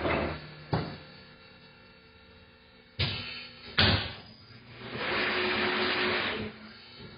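Tyre-changing machine at work: a clunk, then two loud sharp metallic knocks, followed by a hiss of compressed air lasting about a second and a half.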